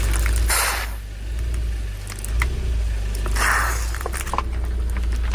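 Car engine rumbling low as its tyre rolls over and crushes objects, with two short crunching bursts, about half a second in and again about three and a half seconds in, and a few small cracks.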